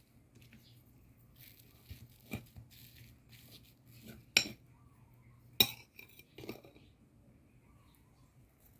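Cutlery clinking against dishes in a few scattered sharp clinks, the two loudest about four and a half and five and a half seconds in.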